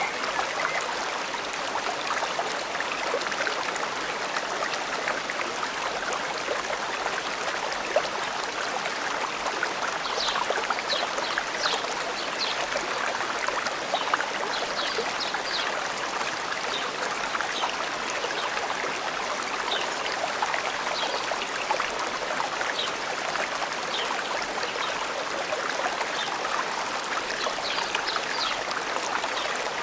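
A forest stream flowing with a steady rush of water. Short faint high chirps are scattered through the second half.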